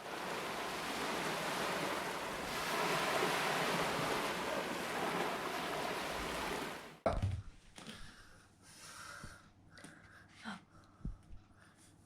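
Ocean surf: a steady wash of breaking waves, possibly with wind on the microphone, cutting off abruptly about seven seconds in. After that it is quiet, with a few faint knocks and rustles.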